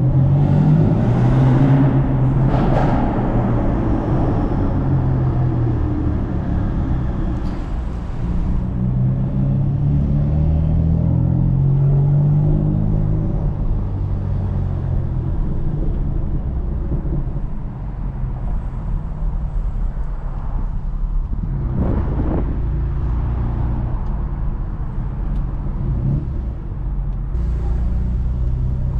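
BMW F82 M4's twin-turbo inline-six exhaust echoing in a parking garage as the car is driven, its note rising and falling with the throttle, with a few brief sharper revs.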